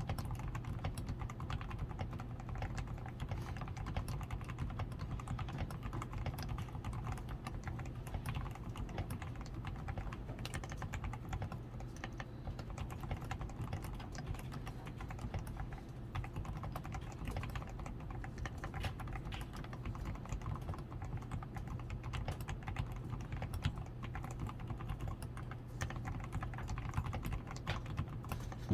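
Continuous typing on a DAREU A87 Pro mechanical keyboard, fully lubed with Krytox 105, PCB tape-modded, with foam-reinforced switches, lubed stabilisers and XDA keycaps: a dense, unbroken run of keystroke clacks over a low steady hum.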